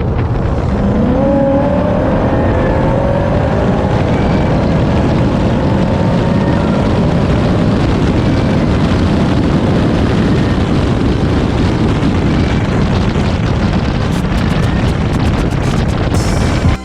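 Car engine running loudly, rising in pitch over the first few seconds as it revs up, then a steady heavy rush of engine and wind noise.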